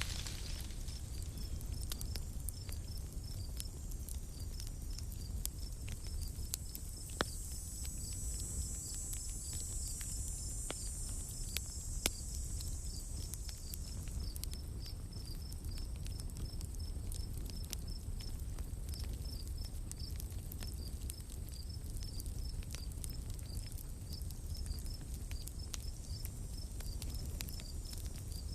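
Night-time forest ambience: an insect chirping steadily in an even pulse of about four chirps a second over a low rumble, with a higher hiss for a few seconds and scattered sharp pops and crackles, two louder ones, typical of a campfire.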